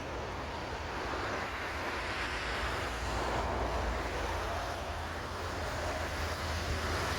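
Jet airliner engines heard from the ground as a steady rushing rumble, growing slightly louder near the end.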